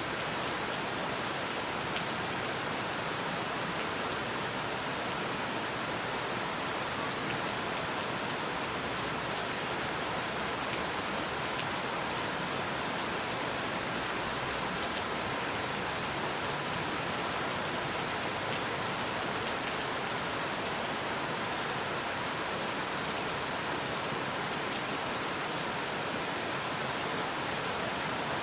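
Steady rain falling, an even hiss with many small drop ticks through it.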